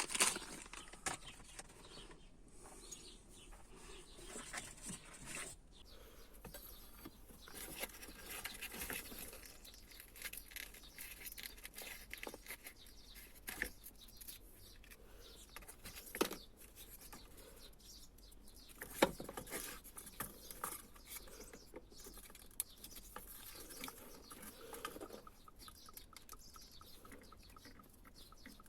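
Faint, irregular clicks, taps and rustles of a fuel pump assembly being handled and taken apart, with a few sharper clicks along the way.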